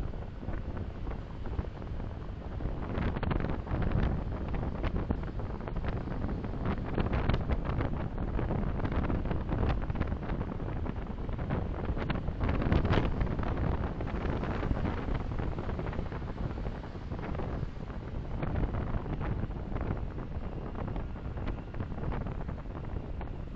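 Road and wind noise from a moving car, picked up by a dashcam microphone: a steady low rumble that swells a few seconds in and again about halfway through.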